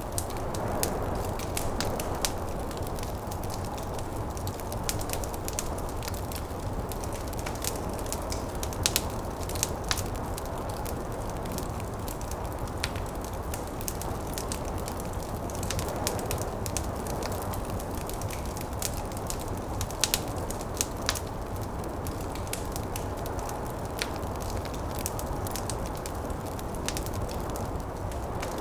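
Wood fire crackling in a fireplace, with irregular sharp snaps and pops, a couple of louder ones about nine and twenty seconds in. Underneath runs a steady low rush of snowstorm wind.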